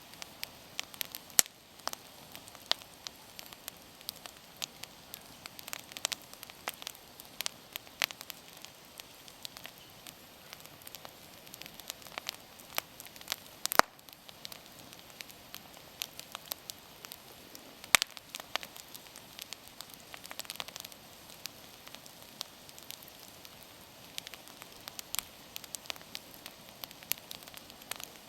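Wood campfire burning, crackling and popping irregularly over a soft hiss, with a few louder snaps about 14 and 18 seconds in.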